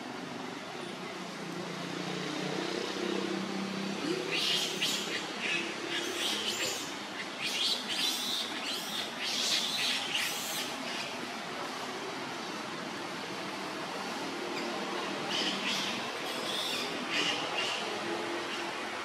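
Birds chirping in quick short calls, in a busy spell from about four to ten seconds in and a shorter one near the end, over a low steady background hum.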